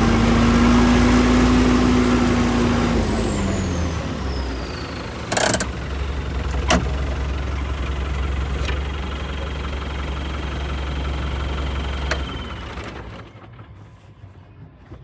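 New Holland tractor engine running, its revs dropping about three seconds in to a low idle, with a high whine falling at the same time. A few sharp clicks follow, and the engine stops near the end.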